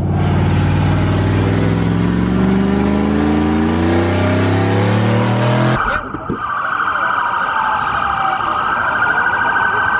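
A car engine under acceleration, its pitch climbing steadily for about six seconds, then after a sudden cut a siren wailing up and down.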